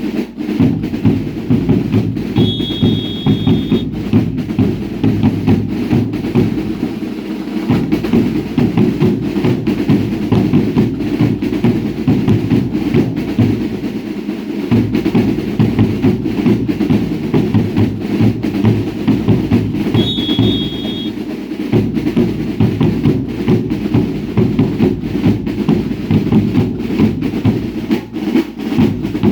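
Drums of a baile indio dance group beating a fast, steady rhythm, with deep bass drum and snare-like strokes. Twice, a short high steady tone sounds over the drumming, about two seconds in and again about twenty seconds in.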